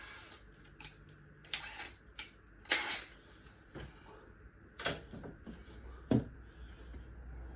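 Hand spanner clinking against bolts and metal parts of a car while being fitted and tried on a fastener: a handful of separate sharp clicks and knocks, the loudest about three seconds in.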